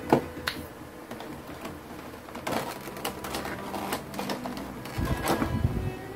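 Scattered sharp clicks and taps, with a low rumbling handling noise near the end, typical of boxes and packaging being handled.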